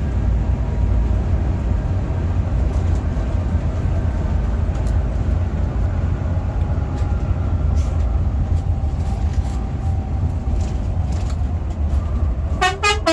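Steady low rumble of a Hino RM 280-powered coach running on the road, with some faint ticks and rattles. Near the end a short, rapid stuttering tone sounds.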